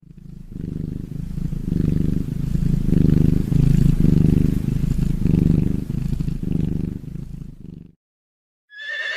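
Domestic cat purring, a low rumble that swells and eases about once a second with each breath, stopping near the end.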